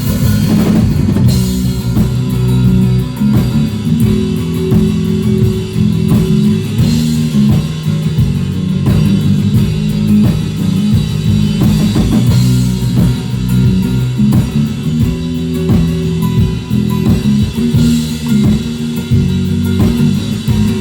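A live rock band playing an instrumental passage: guitar, bass guitar and drum kit, with no vocals.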